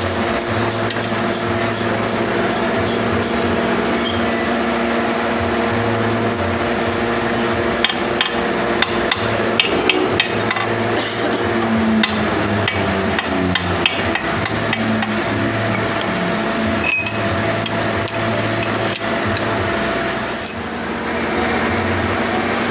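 Hammer striking metal on a workpiece, a series of sharp strikes mostly bunched in the middle, over a steady machine hum.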